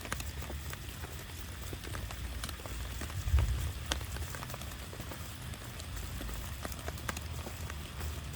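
Heavy rain falling, with many separate drops ticking sharply on a nearby surface over a steady low rumble. A brief louder thump comes about three seconds in.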